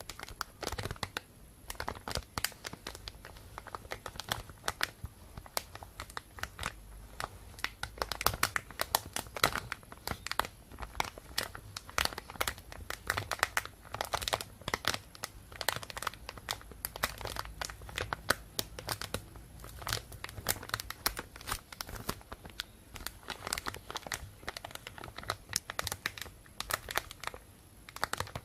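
Thin plastic bag being crumpled and crinkled close to the microphone: a continuous, irregular run of sharp crackles, thicker and louder in stretches.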